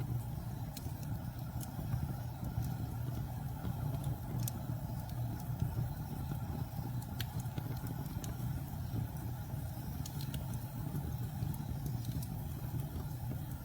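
Campfire burning wood, with occasional sharp crackles and pops over a steady low rumble.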